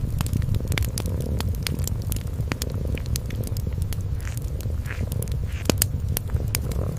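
A cat purring in a low, steady rumble, with a wood fire crackling and popping in sharp, irregular clicks over it.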